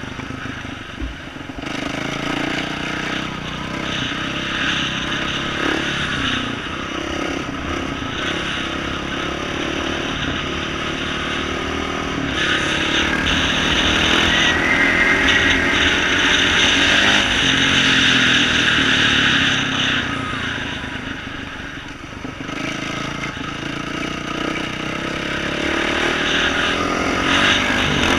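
2012 Yamaha YZ450F dirt bike's single-cylinder four-stroke engine with an aftermarket exhaust, running under changing throttle on a trail ride. It gets louder and revs harder from about halfway through, eases off briefly a few seconds later, then picks up again near the end.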